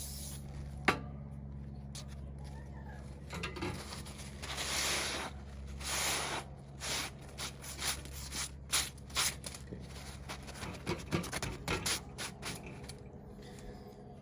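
Rubbing and scraping on 120-grit sandpaper laid over a flat tile, in a run of short strokes in the second half, while aluminium residue is worked off the paper. A sharp click comes about a second in.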